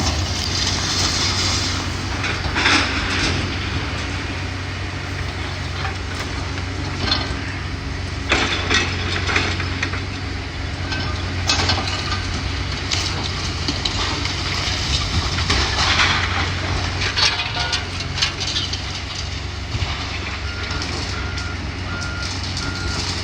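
Heavy demolition machinery with its diesel engine running steadily while debris crashes and crunches in several loud bursts as the building is torn down. A reversing alarm starts beeping near the end.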